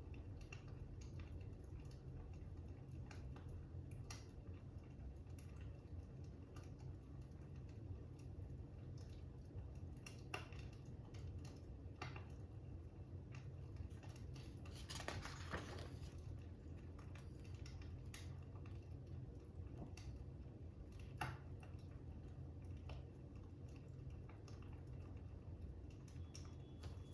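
Fire crackling: a low steady rumble with scattered single pops and a short cluster of crackles about halfway through.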